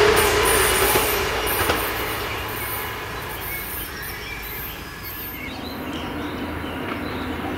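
Diesel railcar running away over the track, its wheel and rail noise with some high wheel squeal fading steadily over the first five seconds, leaving a quieter steady outdoor background.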